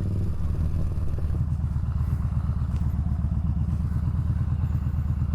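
Motorcycle engine running at low revs, a steady low pulsing beat.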